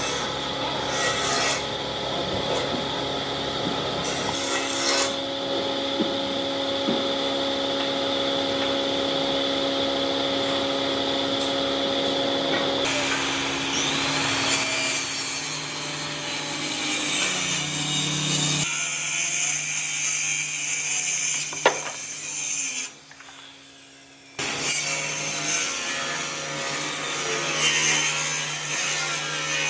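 Power tools cutting and working wood over a steady machine hum. The sound changes abruptly several times, as between separate clips, and drops away briefly about 23 seconds in.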